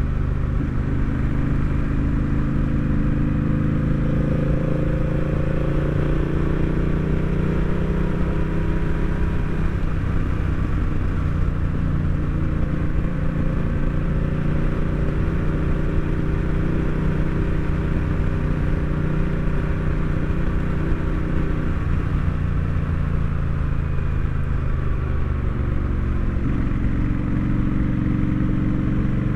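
Honda Rebel 1100 DCT's parallel-twin engine running under way, its note rising and falling slowly with road speed, with an abrupt jump in pitch near the end.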